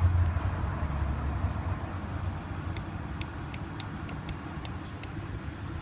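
Low steady rumble of the Audi Q7's 3.0-litre supercharged V6 idling, heard from inside the cabin. It is louder for the first second or so, then settles, with a few light clicks near the middle.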